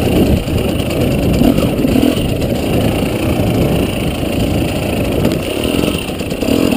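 Dirt bike engine running under changing throttle, rising and falling in pitch and loudness as the bike is ridden across rough grassy ground.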